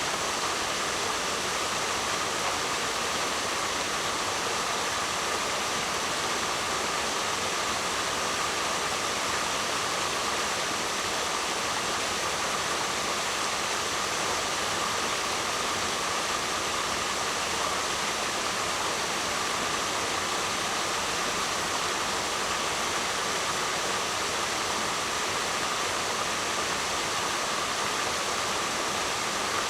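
Waterfall: a steady, unbroken rush of falling water with no swells or pauses.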